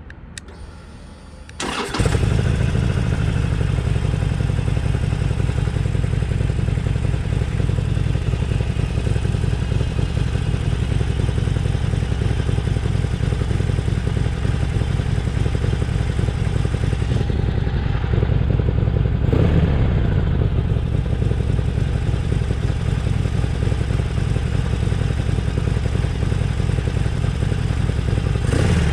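Harley-Davidson Sportster XL1200CX's air-cooled 1200 cc V-twin started up about two seconds in, then idling steadily through its exhaust, with a brief blip of the throttle about two-thirds of the way through and another near the end.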